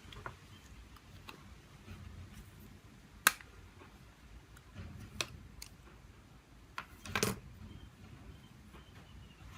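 Sharp clicks and taps of small hard parts and tools being handled while a smartphone is worked on. One loud click comes about three seconds in, then a few lighter ones, and a short clatter near the end.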